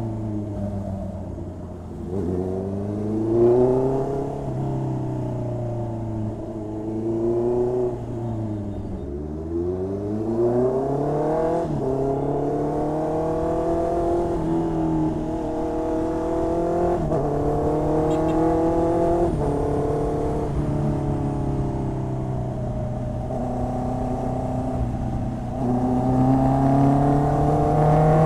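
2020 Honda CB650R's inline-four engine through an SC Project exhaust while riding: the revs climb and fall with gear changes, dropping low about eight seconds in, then rising sharply and running through a series of climbs each cut by a step down in pitch at an upshift. It gets louder near the end.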